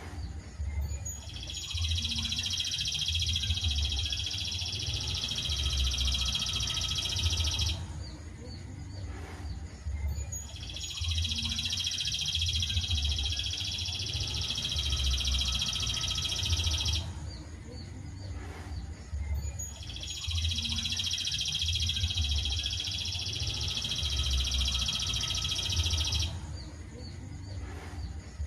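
Masteran song-training recording: a high, steady, buzzing trill held for about six seconds, three times over, with short pauses between, over a low uneven rumble.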